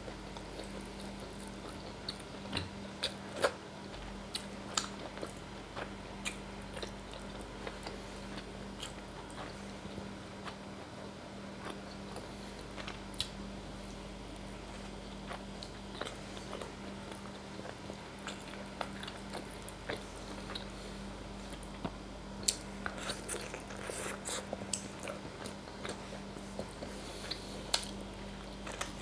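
Close-miked mouth sounds of eating: chewing and lip smacking as meat is picked off a bone by hand and eaten, with many short wet clicks scattered throughout. A steady low electrical hum lies under it.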